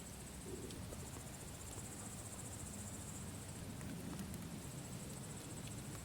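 Crickets trilling steadily over a campfire's low rumble, with a few faint crackling pops from the burning wood.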